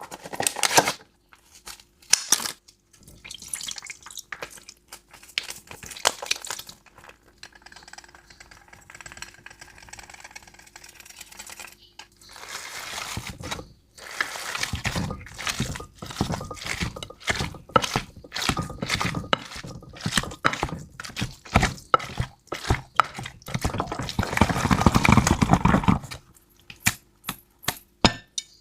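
Cat food being prepared in dishes: many sharp clicks and clinks of bowls and lids, with goat milk pouring for much of the second half, loudest near the end.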